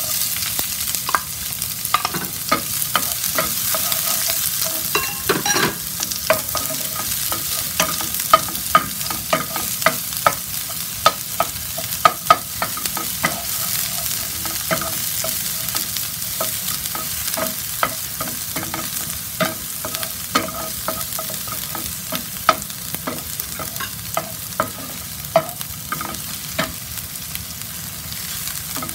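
Chopped onion sizzling in hot oil in a frying pan, the sizzle starting suddenly as the onion goes in. A wooden spoon stirs it, clicking and scraping against the pan about once or twice a second.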